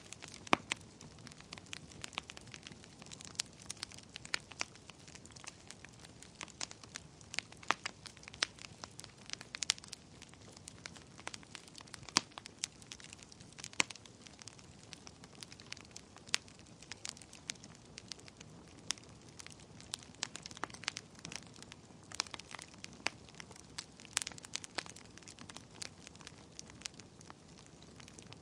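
Wood fire burning in a fireplace: a steady stream of irregular crackles and sharp pops over a faint hiss.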